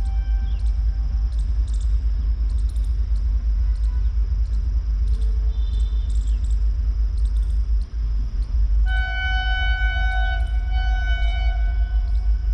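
Vande Bharat Express electric multiple-unit train rushing past at high speed: a heavy low rumble with rapid clicks from the wheels and rails. About three-quarters of the way in, a steady, held multi-tone horn starts sounding.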